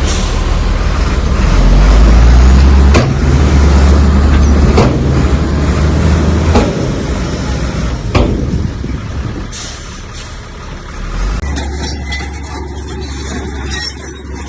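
Bulldozer's heavy diesel engine working hard under load, with sharp metallic clanks about every second and a half to two seconds. Near the end it eases off to a steadier, lighter drone.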